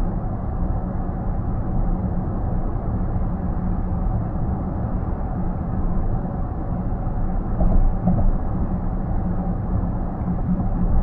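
Steady road and tyre noise inside a car's cabin at highway speed, an even rumble with a small click and a brief louder moment about eight seconds in.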